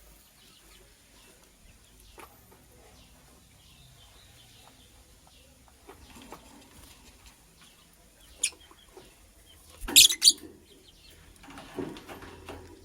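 Lovebird with faint chirps, then a single sharp shrill call about eight seconds in and a loud burst of shrill calls around ten seconds. A second or so of wing fluttering follows near the end.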